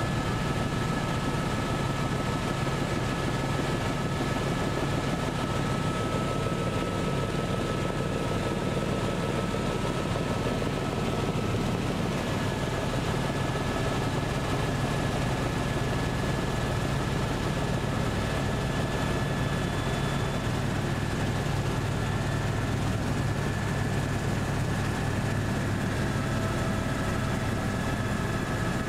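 An engine drones steadily throughout, a strong low hum with a couple of thin, steady high whines above it.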